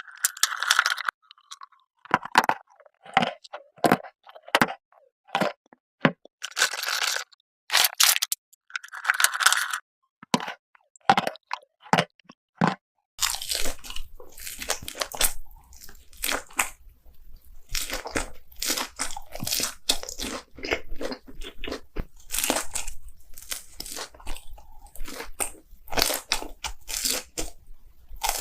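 Close-miked eating sounds: crisp crunchy bites and chewing, irregular and sharp. Around halfway the crunching gets denser, with a faint steady low hum underneath.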